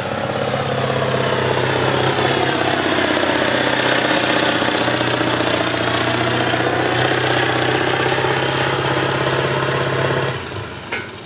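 Semi truck's diesel engine running loud and hard under full load as it pulls the sled, its pitch sagging a little midway and recovering. Throttle let off about ten seconds in, the sound falling away sharply, followed by a couple of short knocks.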